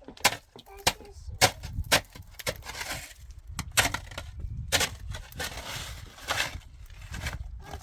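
A series of sharp knocks or blows at uneven spacing, about one a second, with rough scraping or rustling noise between them.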